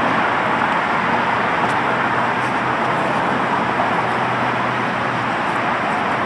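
Steady city street traffic noise: a continuous rush of passing cars, with a low engine hum under it that fades near the end.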